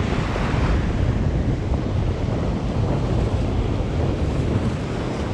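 Strong wind buffeting the microphone in a steady low rumble, over the wash of surf on the beach.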